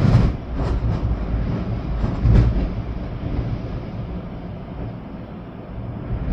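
Storm wind rumbling and gusting, with rain. Sharp gusts hit at the start and again about two and a half seconds in, with smaller ones in between.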